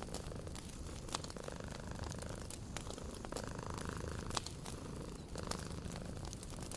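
A cat purring in slow swells over a crackling wood fire, with sharp pops scattered throughout and a steady low rumble underneath.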